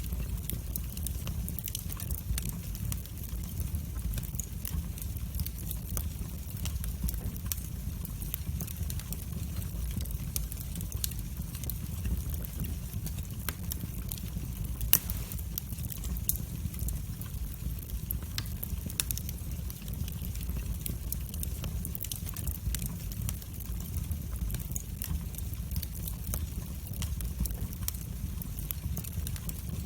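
Wood fire crackling in a fireplace: a steady low rumble of flames with frequent small snaps, and one louder pop about halfway through.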